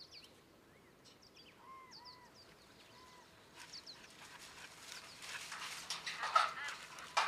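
Birds chirping and calling outdoors, many short rising and falling notes one after another. In the second half a rustling hiss grows, with a louder brief sound about six seconds in.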